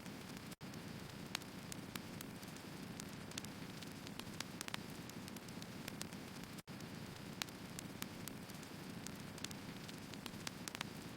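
Firewood burning: a steady hiss and rumble of the fire with frequent, irregular sharp crackles and pops from the logs.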